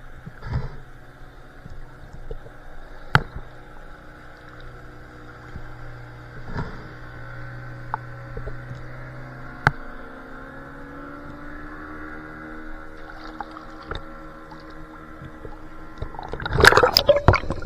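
Underwater ambience: a low steady hum with faint tones slowly sliding in pitch, and a few single sharp clicks. Near the end comes a short burst of loud knocks and clatter.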